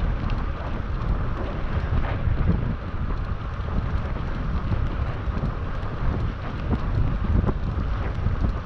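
Wind buffeting an action camera's microphone while cycling: a steady low rumble and rushing noise, with no pauses.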